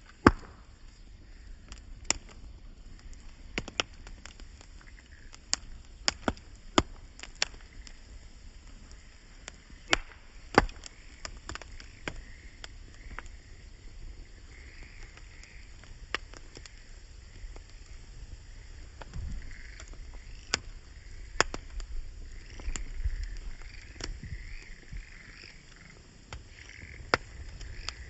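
Wood campfire crackling, with irregular sharp pops, a few of them loud.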